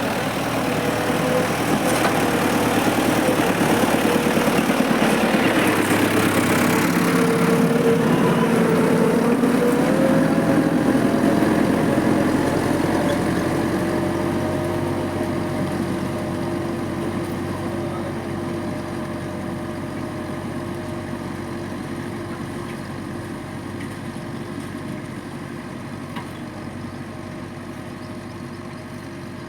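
Tractor engine running steadily. It grows louder, drops in pitch about a third of the way in, then slowly fades.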